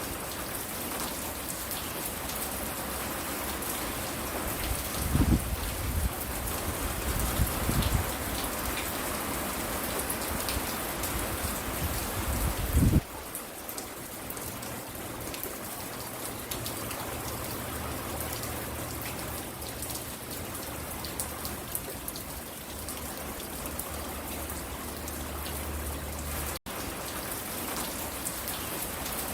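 Steady rain falling and pattering on surfaces, with a few loud low rumbles in the first half, the last of them cutting off suddenly near the middle.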